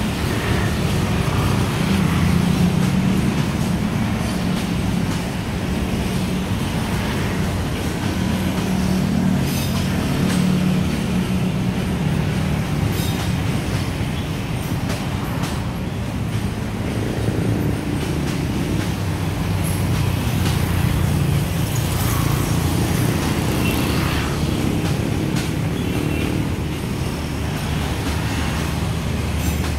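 Passenger train coaches rolling past with a steady low rumble, mixed with cars driving by close in front.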